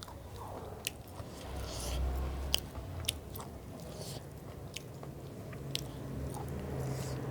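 A person chewing and biting food close to the microphone, with several sharp crunching clicks scattered through the chewing.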